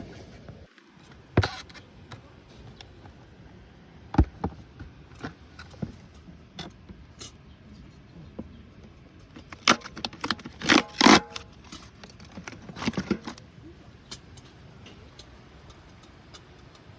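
Scattered knocks and clinks of small hard objects being handled, with a busy run of them a little past the middle and a few more shortly after.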